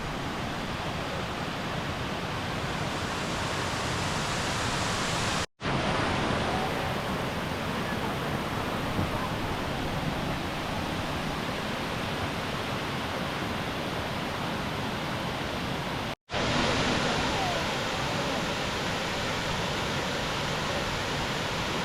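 Steady rush of a waterfall, water pouring and splashing without let-up. Two brief gaps where the sound drops out cleanly, about five and sixteen seconds in.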